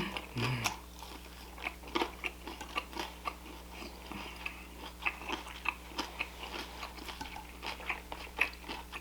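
A person chewing and biting food close to the microphone: a string of short, irregular wet clicks and crunches of eating.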